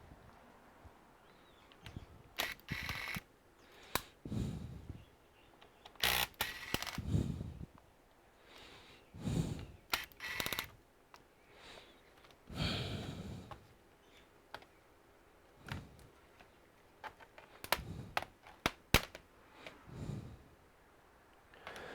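Scattered clicks, knocks and short scraping noises of a laptop's plastic case and parts being handled and worked on with small tools, a few strikes a second at the busiest moments.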